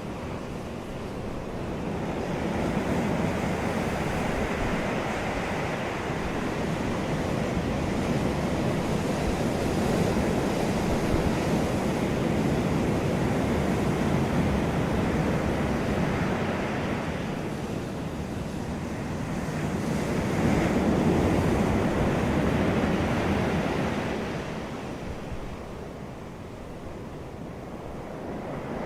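Rushing wind and surf noise that swells and eases in slow surges several seconds apart, with no other distinct sound.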